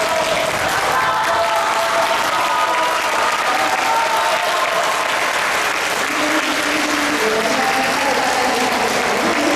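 Audience applauding steadily in a concert hall, with faint held musical notes underneath.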